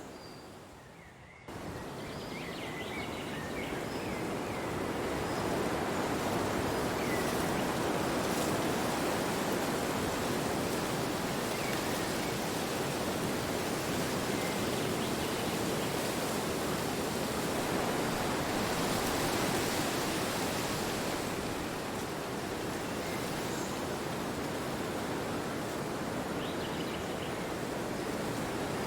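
Wind blowing as a steady rushing noise that swells a little now and then. It comes in abruptly about a second and a half in, after a fading quieter scene with faint bird calls.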